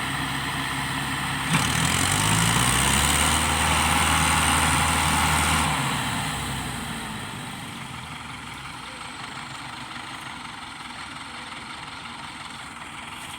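Tractor diesel engine running. A sharp knock comes about a second and a half in; the engine then revs up and holds high for about four seconds before dropping back to a quieter idle.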